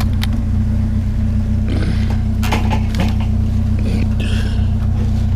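A vehicle engine idling steadily, with a few sharp metal clinks and short scrapes as scrap metal is shifted and wedged tighter.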